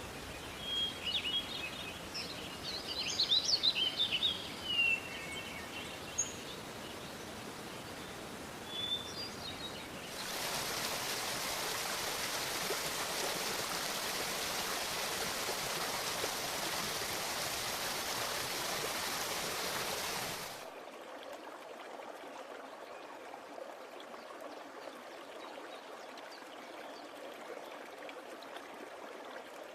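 Birds chirping in short calls for the first few seconds over a steady background hiss. About ten seconds in, a louder, even rush of running water begins and cuts off abruptly around twenty seconds, leaving a fainter steady hiss.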